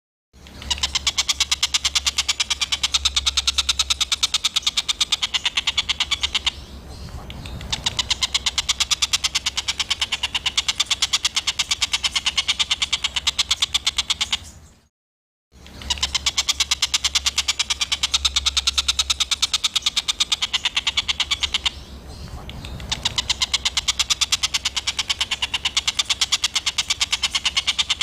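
Songbird tutor recording of harsh, rough 'tembakan' calls: a fast, unbroken run of sharp chattering chip notes, several a second. It breaks off briefly about halfway and then repeats as a loop.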